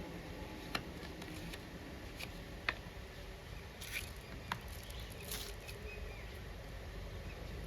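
Quiet handling noises: three sharp, light clicks roughly two seconds apart and a couple of brief scrapes or rustles, over a low steady hum.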